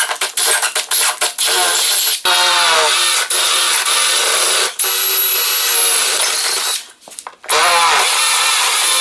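Electric drill boring the outboard motor's mounting-bolt holes through the boat's transom, its motor speed rising and falling as the trigger is worked. It stops briefly several times and pauses for about half a second around seven seconds in before starting again.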